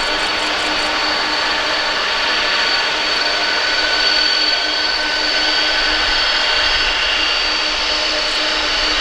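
Boeing 747's jet engines running steadily during take-off: a loud, even rushing noise with several steady whining tones over it.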